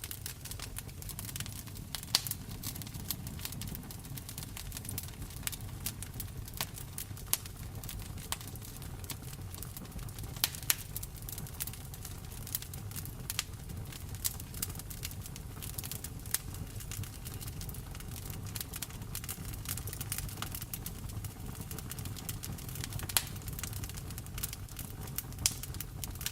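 Wood fire crackling in a fireplace, with irregular sharp pops and snaps over a steady background of rain.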